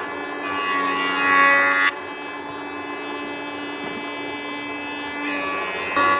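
Small electric power tool running with a steady whine, louder between about half a second and two seconds in and again near the end.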